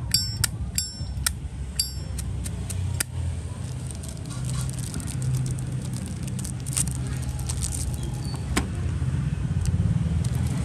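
Brass Zippo lighter lid being flipped open and snapped shut: several sharp metallic clicks with a ringing high 'ting' in the first two seconds, then a few single clicks, over a steady low hum.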